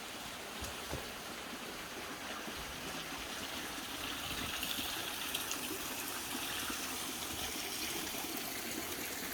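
Steady rushing of running water, growing a little louder and hissier about four seconds in.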